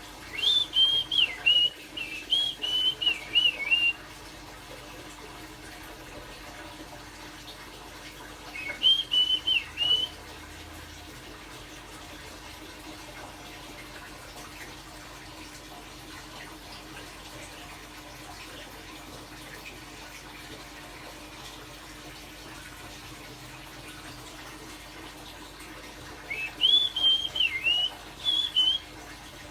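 A person whistling short, warbling phrases in imitation of a blackbird's song, three times: at the start, about nine seconds in, and near the end. Long gaps of steady background hiss lie between the phrases.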